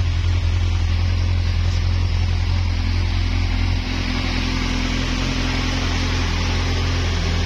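Kawasaki Z1000's 1043 cc inline four-cylinder engine idling steadily, with a low, even exhaust note.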